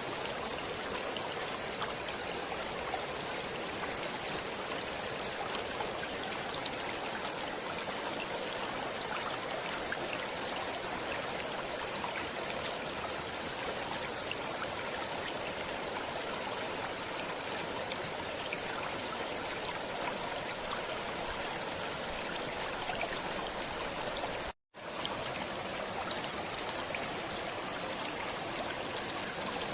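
Steady running water of a stream splashing and trickling, with a split-second dropout to silence near the end.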